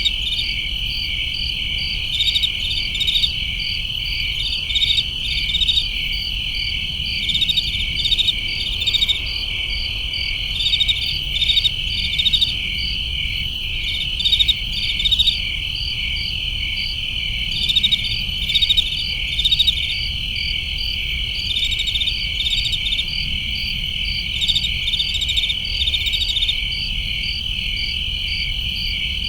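A chorus of crickets chirping, with a continuous high trill overlaid by rapid, evenly pulsed chirps that swell and fade every second or two. A faint low rumble lies underneath.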